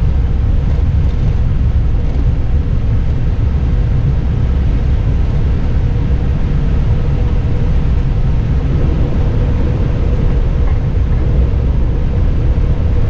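Steady low rumble inside an Airbus airliner's cockpit, with the engines running.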